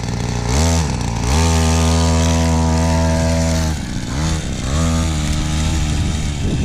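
Fit Right FRP DB002 50 cc two-stroke mini bike engine being given throttle. It revs up sharply about half a second in, dips, then climbs again and holds a high steady pitch. It drops back near the four-second mark, then revs up again in two surges and holds.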